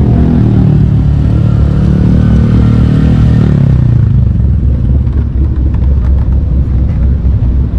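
Vehicle engine running loud, its pitch falling slowly as the revs drop over the first four seconds, then settling into a steady low rumble.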